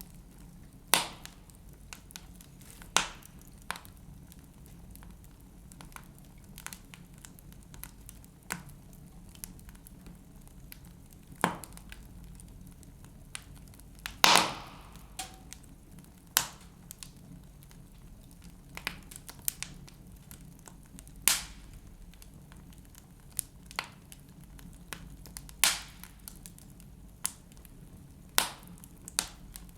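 Wood fire burning in a fireplace, crackling with irregular sharp pops, one louder pop about halfway through, over a low steady rumble.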